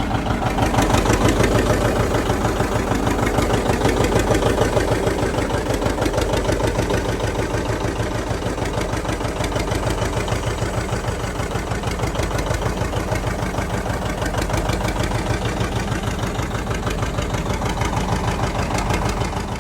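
An engine running at a steady idle with a fast, even chugging pulse, a little louder in the first few seconds.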